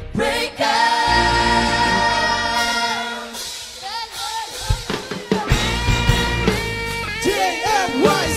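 Group singing a worship song over a band with drums and guitar.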